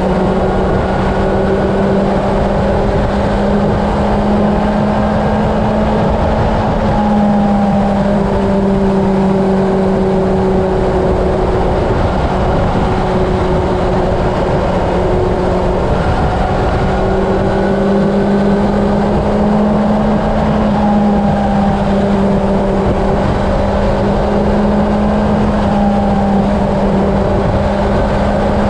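Honda CB750 inline-four engine running at a steady highway cruise, its hum holding nearly level in pitch, under heavy wind rush on the helmet or bike-mounted camera microphone.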